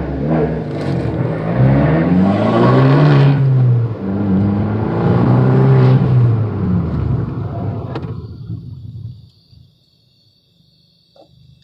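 Fiat 500 Abarth's 1.4-litre turbocharged four-cylinder accelerating hard. The revs climb for about three seconds, drop at an upshift and climb again, then the engine falls away and fades out about eight seconds in.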